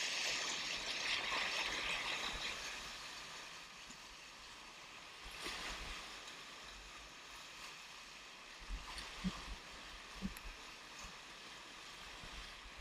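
Whitewater rapids rushing, loud for the first few seconds and then fading, with a brief splash about five seconds in and a few short low thumps in the second half.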